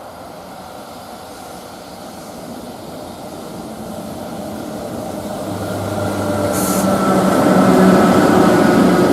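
Electric freight train approaching and drawing level, its running noise and the steady whine of the locomotive's traction motors growing louder throughout and loudest near the end. A brief hiss sounds about two-thirds of the way in.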